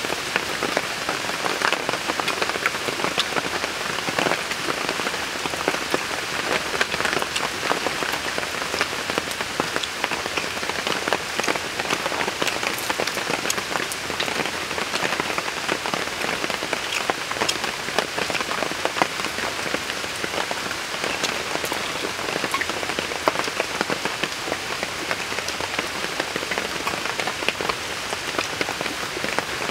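Steady rain falling: a dense, even patter of many small drops that keeps up without a break.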